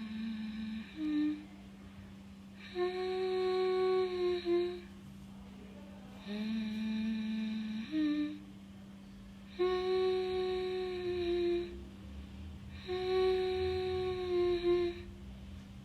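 A person humming a slow lullaby to lull a baby parrot to sleep: five held phrases of about two seconds each, separated by short pauses. A steady low hum runs underneath throughout.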